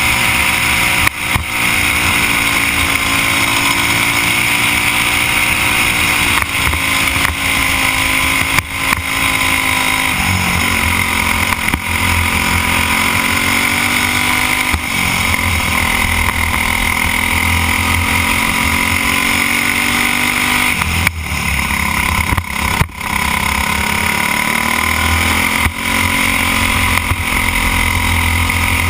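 Briggs & Stratton Animal single-cylinder four-stroke kart engine running at racing speed. Its pitch falls and rises again and again as the kart slows for corners and pulls out of them, with a few short dips where the throttle lifts, two of them close together about three-quarters of the way through.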